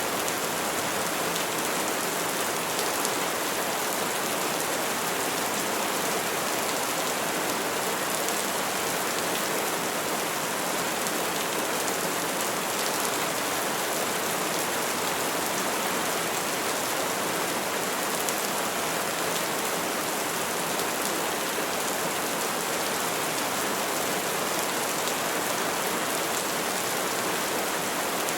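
Steady rain falling on tree foliage, a continuous even hiss with no thunder.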